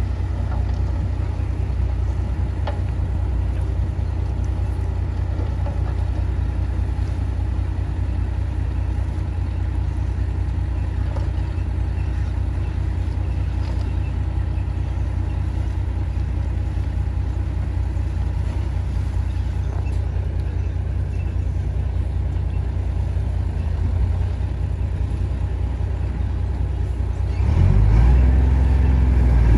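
Bulldozer's diesel engine running steadily with a deep rumble. Near the end it gets louder and rises in pitch as it revs up.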